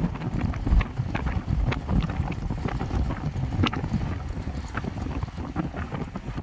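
Wind buffeting the microphone in a gusting low rumble, with many short scattered ticks through it.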